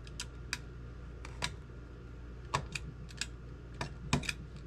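Metal flashing being trimmed by hand: a series of sharp, irregular snips and clicks, about a dozen, over a low steady hum.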